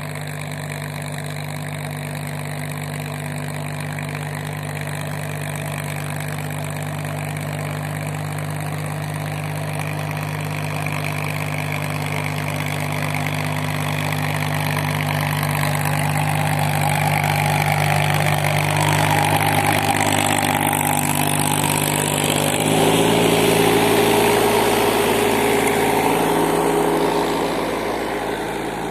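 Sonalika Sikander mini tractor's diesel engine running steadily. It grows louder toward the middle, changes note abruptly about three-quarters of the way in, and eases off near the end.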